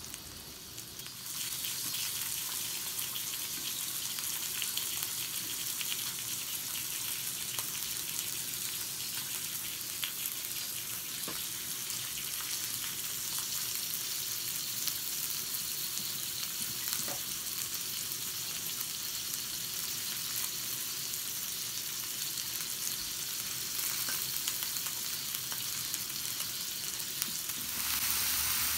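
Beef, sausages and vegetables frying in a small cast-iron skillet over a gas camp stove: a steady sizzle full of fine crackles, growing louder about a second in.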